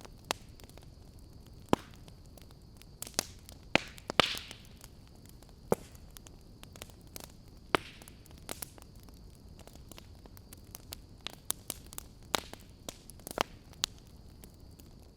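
Wood fire in a fireplace crackling: irregular sharp pops and snaps, several louder ones and a short hiss about four seconds in, over a faint steady noise with a thin high tone.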